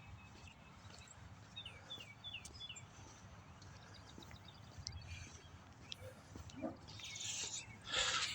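Small birds calling: a quick run of four short down-slurred chirps about two seconds in and scattered fainter chirps, over a low steady background rumble. A louder hissing rush comes near the end.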